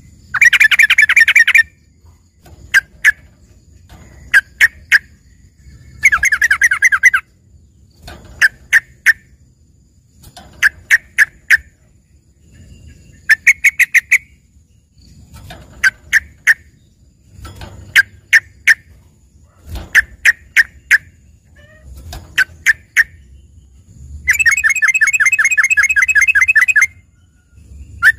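Yellow-vented bulbul (trucukan) singing a tutored 'isian' song likened to a greater green leafbird's. It gives short clusters of two to four sharp notes every second or two, broken by rapid chattering trills, the longest about two and a half seconds near the end.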